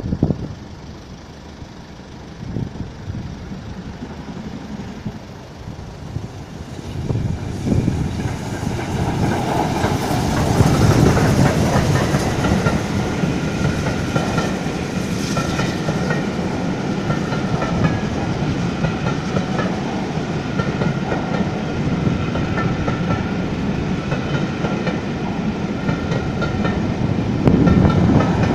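A passenger train of coaches passing over a level crossing, its wheels rumbling and clattering on the rails. The sound builds from about seven seconds in and grows louder near the end as a diesel locomotive at the rear of the train goes by.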